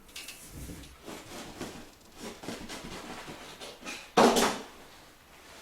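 Handling noises from the fireplace installation: soft rustling and light knocks, then one loud clatter just after four seconds in.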